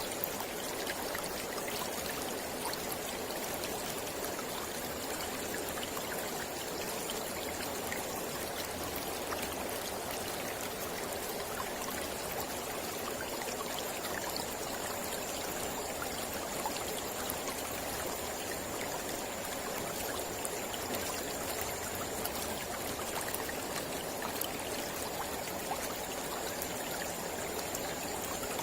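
Mountain river flowing steadily: a continuous even rush of water, flecked with small splashes.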